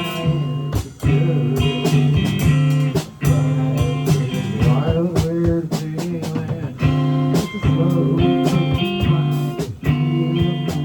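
Live band playing blues-rock music led by guitar, with regular drum hits.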